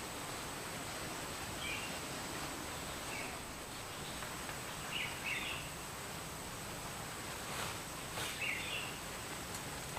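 Forest ambience: a steady hiss with a thin, high continuous tone, and short bird chirps about five times. Two faint clicks come near the end.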